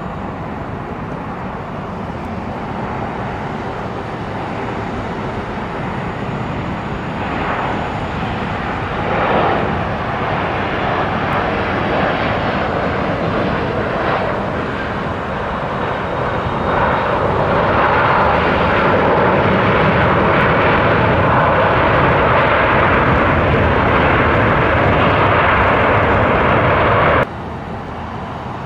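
Airliner's engines running, growing steadily louder as the aircraft passes along the runway, with a steady whine over the engine noise at its loudest, then cutting off suddenly near the end.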